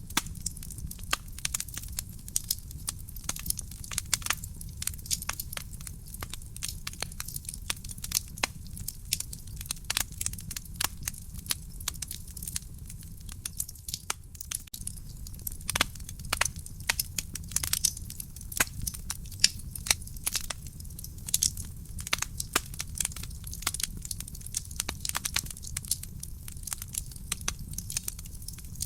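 Wood fire crackling in a fireplace: many irregular sharp pops and snaps, several each second, over a steady low rumble of burning.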